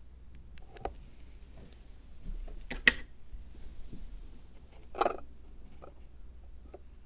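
Small handling sounds of work on a miniature zen-garden diorama: scattered light clicks, one sharp click about three seconds in, and a short scraping rustle about five seconds in.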